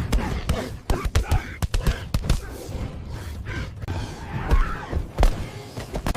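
A rapid run of heavy thuds and knocks, with indistinct voice sounds among them.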